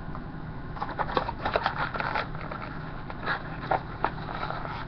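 Plastic toy-car packaging being handled and pried at, giving a string of crackling clicks and scrapes followed by a few separate ticks.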